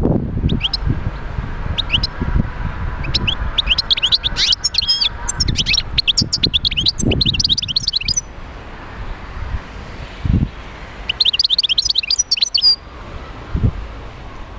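European goldfinch singing: fast twittering runs of high chirps and trills, a long phrase from about three seconds in and a shorter one near the end, each stopping abruptly. Several dull low thumps fall in between.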